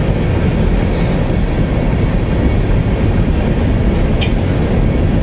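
Freight train rolling past close by: the steady rumble of freight car wheels running on the rails.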